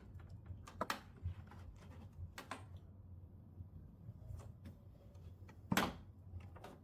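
A few short knocks and clicks over a steady low hum, the loudest knock a little before the end.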